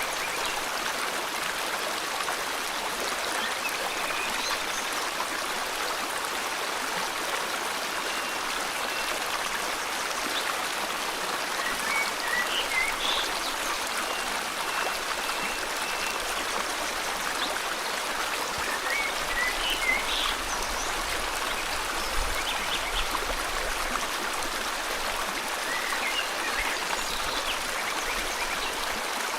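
River water flowing steadily, with birds chirping over it in short scattered calls and a thin high whistle held for several seconds midway.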